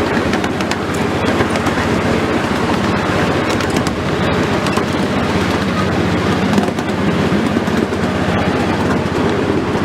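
Train rolling along the track, heard from on board: a steady loud rumble and rattle with many quick clicks from the wheels on the rails.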